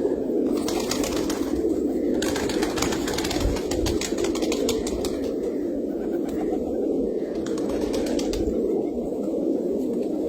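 A flock of farm birds calling steadily, with stretches of rapid rustling and clicking.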